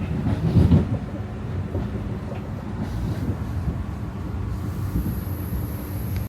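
Amtrak Acela train running on the track: a steady low rumble, with a louder knock about half a second in and a faint high whine near the end.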